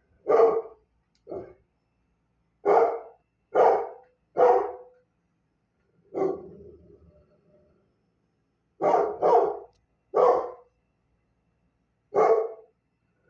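A dog barking: about ten short, sharp barks in irregular groups, some in quick pairs.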